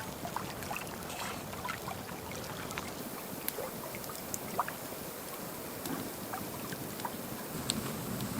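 Steady outdoor ambience of gently lapping water and light wind, with scattered faint ticks and clicks.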